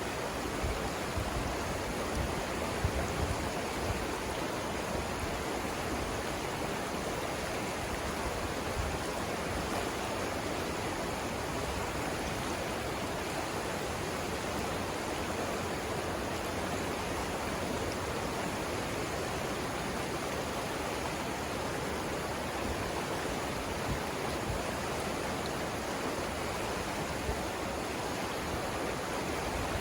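River water rushing over rapids: a steady, even rush of flowing water.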